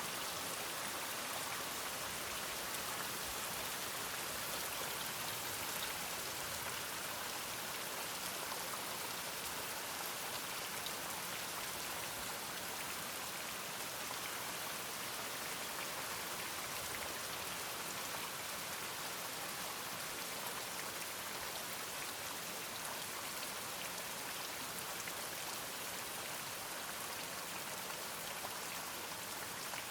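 Steady rain falling, an even hiss with many small drops, unchanging throughout.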